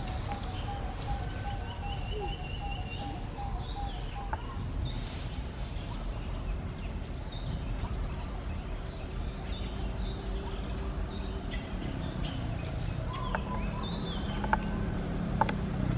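Outdoor ambience: a low wind rumble with scattered bird chirps and calls, including a quick run of evenly repeated notes in the first few seconds. A few short clicks near the end.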